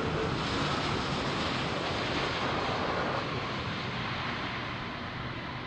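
Jet airliner's engines passing close by, a loud steady rush that eases after about three seconds and slowly fades.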